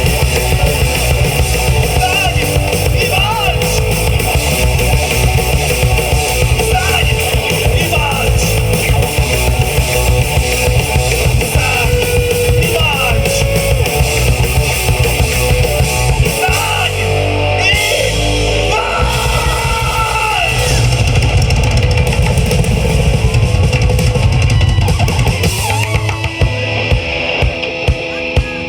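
Live rock band playing an instrumental stretch: electric guitars, bass guitar and drum kit, with a lead guitar line whose notes bend up and down. Near the end the full band thins out and single drum hits stand out.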